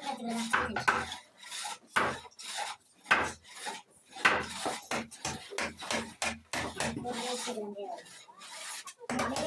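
A hand tool scraping or rasping wood in repeated irregular strokes, about two a second.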